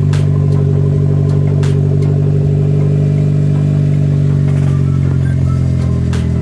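Chevy Sonic's 1.4-litre turbocharged four-cylinder idling steadily and loudly through a modified exhaust: one catalytic converter deleted and a turndown pipe ahead of the rear subframe. A few sharp clicks come over the idle.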